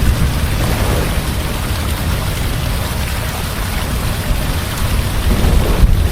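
Heavy rain falling steadily, with a deep rumble of thunder underneath that swells louder near the end.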